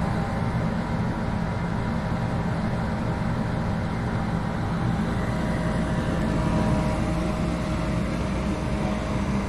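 Goodman furnace's blower running with a steady mechanical hum and faint steady tones above it.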